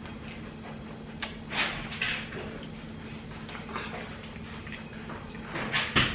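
A crunchy nacho-cheese Doritos taco shell being bitten and chewed, with irregular crisp crunches that come thicker near the end, over a faint steady low hum.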